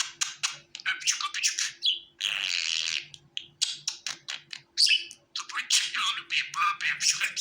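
Budgerigars chattering: a rapid run of short high chirps and warbles, broken about two seconds in by a longer harsh, scratchy call.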